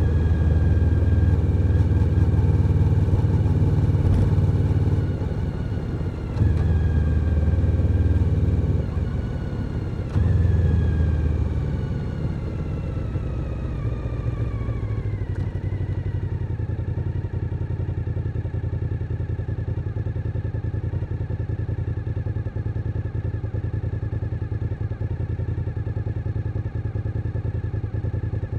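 Suzuki SV1000N's 996 cc V-twin engine under way: loud, with two short throttle pulls, then the note falls steadily as the bike slows. For the second half it settles into a steady, quieter run, like idling at a stop.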